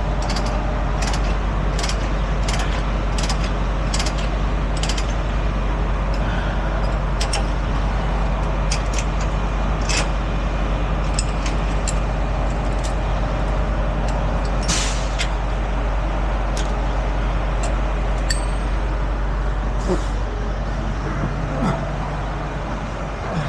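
A truck engine idles steadily while short, sharp metallic clicks and clanks come at irregular intervals, thickest in the first few seconds.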